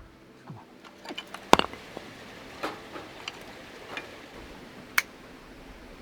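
A handful of separate sharp knocks and clicks, about five in all, the loudest about one and a half seconds in and another at five seconds, over a faint steady hiss.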